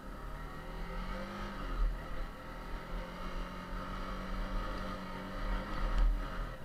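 Yamaha TTR 250's single-cylinder four-stroke engine running while the bike is ridden, the revs rising about a second and a half in and then holding steady. A strong low rumble lies under it, and there is a single knock about six seconds in.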